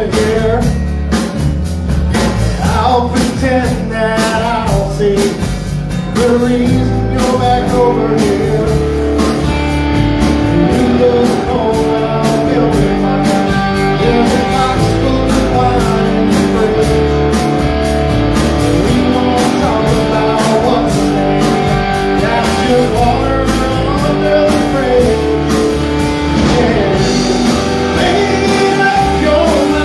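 Live country-rock band playing a song, with electric guitar to the fore over a full band.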